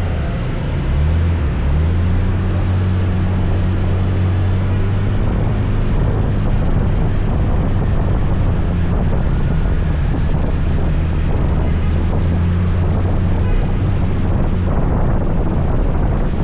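Motor scooter engine running while riding along, its low hum picking up about a second in and then holding steady, under wind and road noise.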